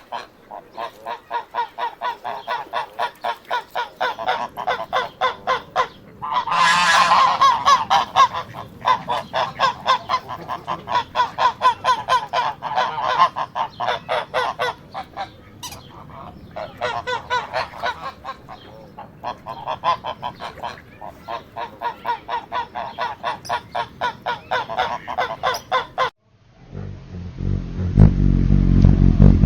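Fowl calling in quick repeated notes, several a second, in long runs with short breaks. About 26 seconds in, the calls stop and a low rumbling noise takes over.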